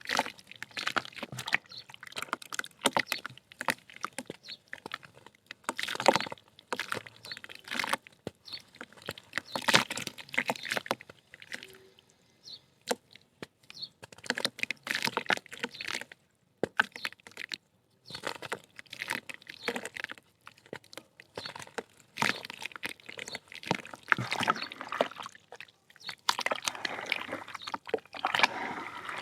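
Soft mud-dirt chunks being crumbled, crackling and crunching in irregular bursts, with a wet, watery edge at times. There are a couple of brief pauses, the longest about two-thirds of the way through.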